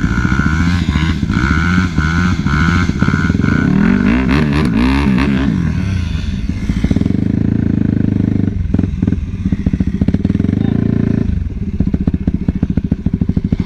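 Motorcycle engines running loudly, revved up and down around the middle, then settling into a pulsing idle about two thirds of the way in.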